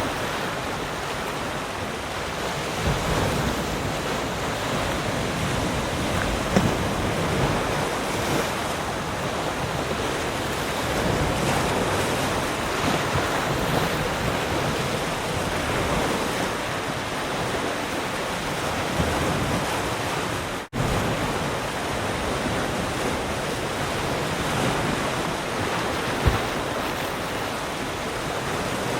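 Sea surf: waves breaking and washing up continuously, with wind gusting on the microphone. The sound drops out for a moment about two-thirds of the way through.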